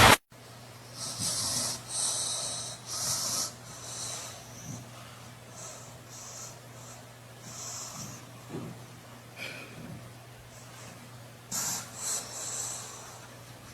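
A pet's short, breathy snuffles and wheezes, coming in irregular puffs, over a faint steady electrical hum.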